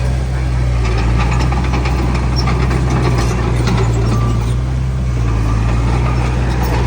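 Heavy diesel engine of earthmoving machinery running steadily with a deep, even hum, with light clicks and rattles over it.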